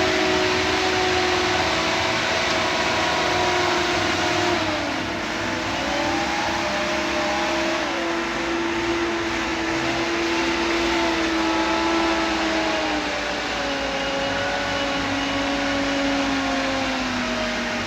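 Heavy diesel machinery engine running under varying load, its pitch drifting up and down as the throttle changes, with a steady whine over the engine noise.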